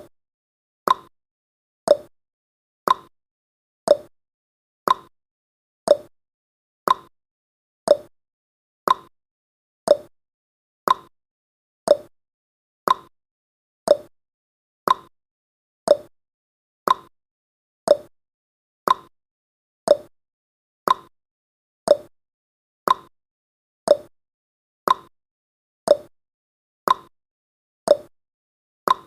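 Clock-style tick-tock sound effect, one sharp tick every second, alternating between a higher and a lower pitch, counting the seconds of a countdown timer.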